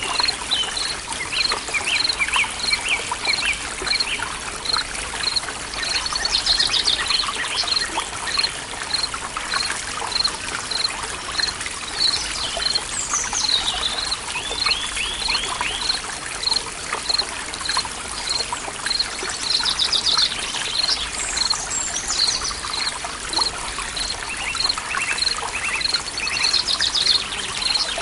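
Forest ambience: a stream trickling steadily, with birds singing over it in scattered trills and chirps, and a short high note repeated about twice a second throughout.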